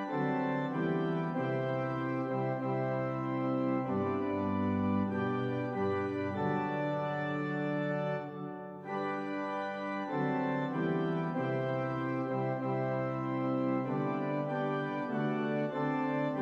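Organ music: slow, held chords that change every second or two, with a brief dip a little past halfway.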